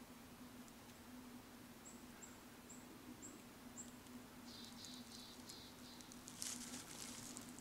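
Faint high bird calls, about two a second, then a brief trill. Near the end, footsteps start rustling on dry leaf litter on the trail.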